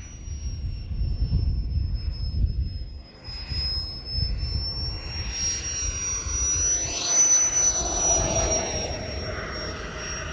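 Turbine of a large RC model M-346 jet, a Merlin 160, running in flight: a steady high whistle over a rushing roar that swells as the jet passes close about seven seconds in.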